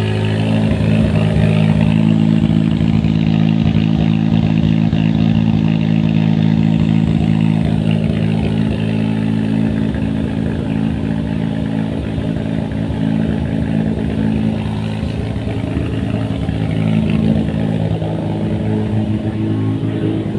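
660T engine idling steadily after a cold start, holding an even pitch.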